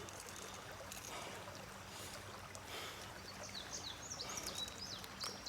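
Shallow creek water running steadily, with a few faint splashes early on. From a little past halfway, a bird chirps in a quick run of high notes.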